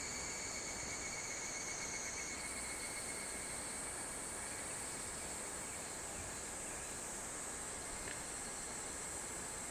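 A steady chorus of summer insects, shrill high tones that shift slightly higher about two seconds in, over a low, even rush of river water.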